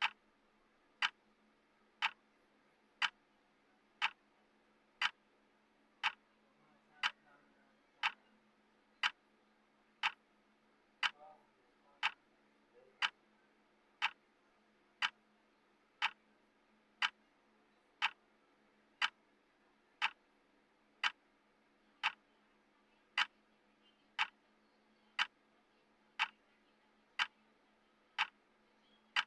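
Clock tick sound of a countdown timer, one sharp tick each second, steady and even.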